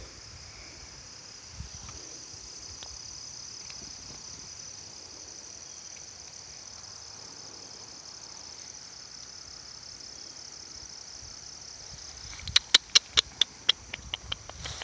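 Crickets chirping steadily in a continuous high-pitched chorus. Near the end comes a quick run of about a dozen sharp, loud, high clicks.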